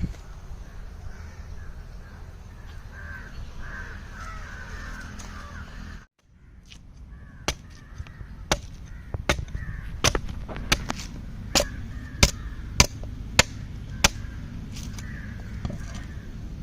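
Crows cawing outdoors, with a run of sharp knocks about one and a half a second in the second half. The sound cuts out briefly about six seconds in.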